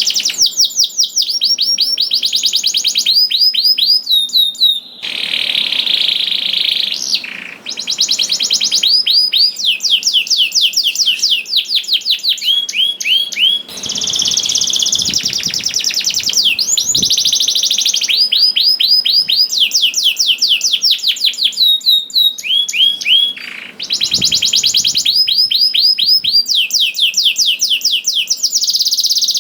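Domestic canary singing a long, loud song of fast rolling trills. Each phrase is a rapid run of the same rising note, switching to a new note type every second or two with barely a pause.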